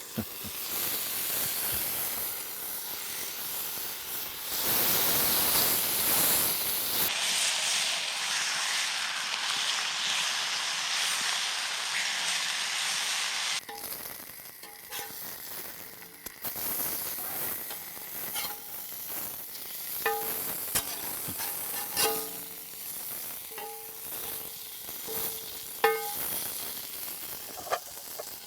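Food sizzling as it fries in a pan. Through the later part a metal utensil clinks and scrapes against the pan, with several sharp ringing clicks.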